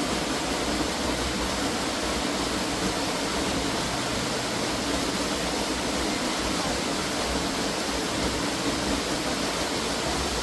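Rushing water, a steady unbroken rush like a waterfall or stream running into a rainforest swimming hole.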